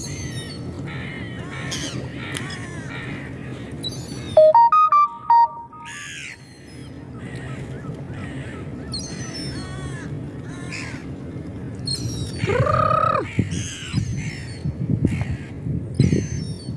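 Gulls calling over and over with short cries over steady low background noise, with one long arching call about twelve seconds in. About four seconds in, a brief electronic melody of a few stepped tones sounds loudly.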